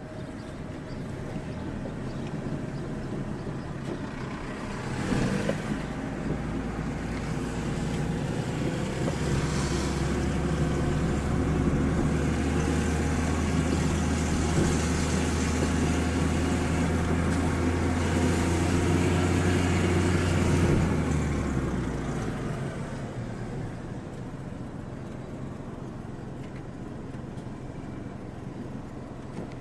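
A motor vehicle's engine comes closer, runs loud and steady nearby for about ten seconds, then fades away.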